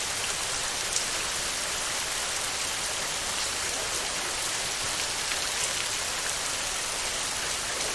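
Steady heavy rain falling on a metal roof, a dense even hiss with scattered individual drop ticks. One sharper drop lands about a second in.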